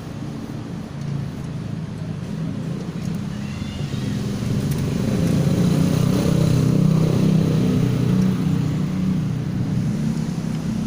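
Small Viar motorcycle engine, with a newly fitted cylinder block, running steadily; it gets louder from about the middle on, as if revved a little higher.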